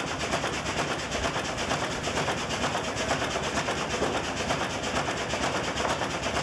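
1902 American LaFrance steam fire engine running at work: its steam engine and double-acting piston pump chuff and clank in a fast, steady rhythm.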